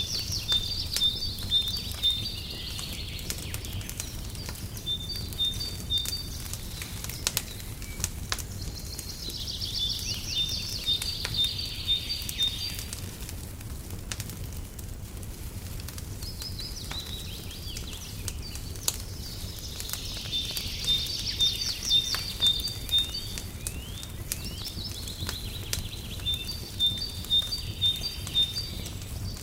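Wood fire crackling and popping with a steady low rumble, while a songbird sings short trilled phrases of quick repeated notes every few seconds.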